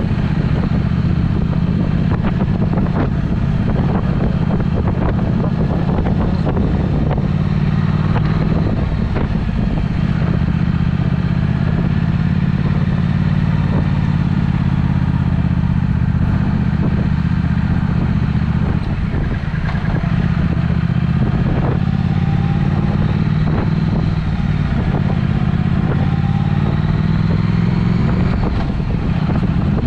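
Triumph Speed Twin's parallel-twin engine running through a Vance & Hines aftermarket exhaust while riding at a steady, even pace, with no big revs.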